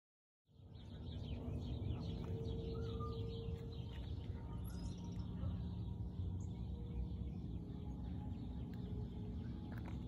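Small birds chirping and twittering over a steady low rumble of outdoor background noise; the sound cuts in about half a second in.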